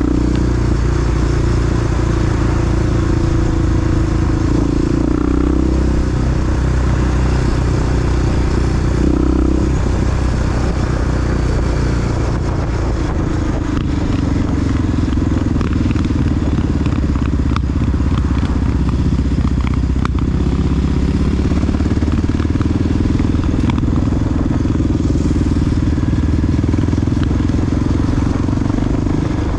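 Honda XR big-bore four-stroke single-cylinder dual sport motorcycle engine running while riding, its pitch shifting a few times as the throttle and speed change, with scattered ticks and clatter over it.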